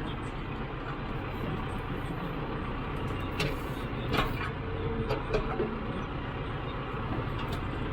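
Tractor engine running steadily, with a few sharp knocks about three to five seconds in.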